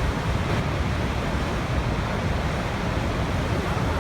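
Waterfall: water falling and rushing in a steady, unbroken roar-like hiss with no distinct splashes or changes.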